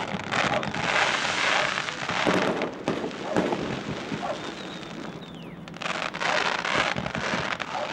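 Fireworks display: dense crackling and fizzing from bursting fireworks, swelling and fading several times, with a few sharp bangs.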